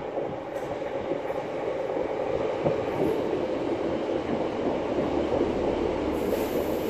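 A passenger train passing directly beneath a railway bridge. Its rumble swells over the first couple of seconds as it approaches, then holds steady as the carriages run underneath.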